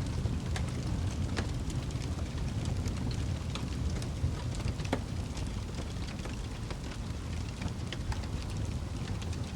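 Wood fire burning in a fireplace: a steady low rumble of flame with frequent, irregular crackles and pops.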